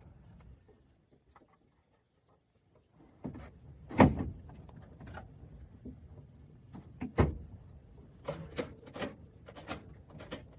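Suzuki Samurai seat being worked on its freshly greased rails: a loud metal clunk about four seconds in and another about seven seconds in, then a run of smaller knocks as it latches into the rail notches.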